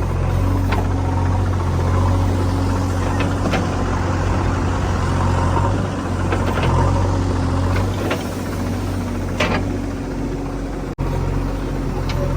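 Heavy diesel engine running steadily, with scattered short knocks and clanks. The sound breaks off for an instant near the end.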